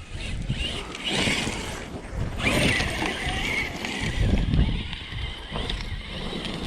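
Electric RC basher (M2C Jackhammer) driving over rough dirt and gravel: swells of tyre and drivetrain noise come and go, loudest about a second in, two and a half seconds in and four and a half seconds in. Wind buffets the microphone throughout.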